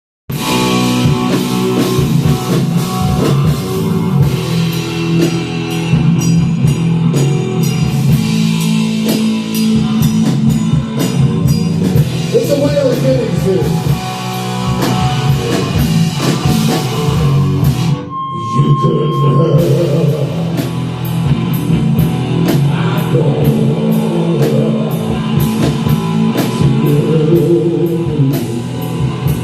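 Rock band playing live, with electric guitar and a drum kit. About eighteen seconds in the band stops briefly, leaving a single held note, then comes back in.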